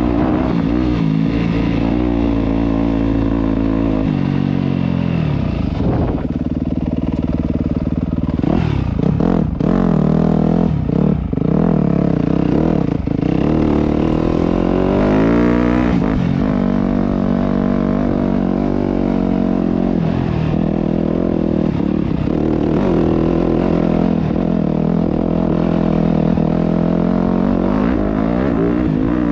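Yamaha YZ250F four-stroke single-cylinder dirt bike engine being ridden, its pitch repeatedly rising and falling as the throttle is opened and closed. Several clattering knocks come about halfway through.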